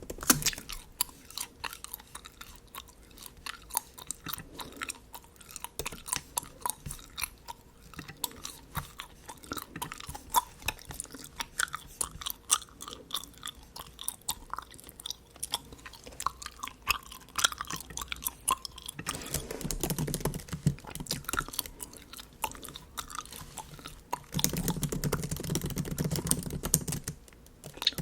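Bubble gum chewed close to the microphone: a quick run of wet, sticky mouth clicks and smacks, with two louder stretches about 20 and 25 seconds in.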